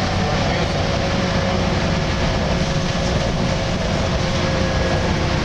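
Volvo B10BLE single-deck bus under way: a steady low rumble of the running bus with a steady mid-pitched groaning tone over it.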